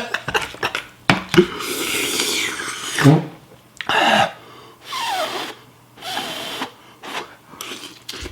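A man eating extremely spicy ramen makes hissing breaths and slurping mouth noises. These come as short bursts about a second apart, some with falling groans, as he reacts to the heat.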